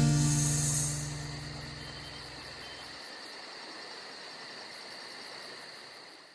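The band's final chord rings out and fades away over the first three seconds, leaving crickets chirping in rapid, high-pitched pulses.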